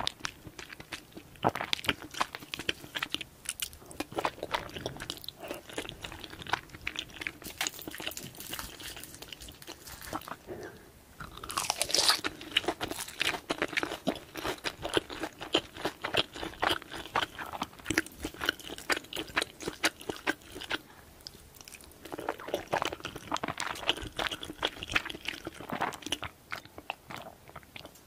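Close-miked chewing of a full mouthful of food: a dense run of small wet crunches and mouth clicks, loudest about twelve seconds in.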